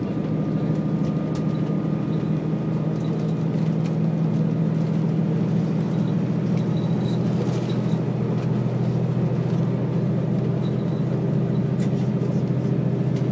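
Diesel limited express train running, heard from inside the passenger car: a steady low engine and wheel rumble with a few faint ticks.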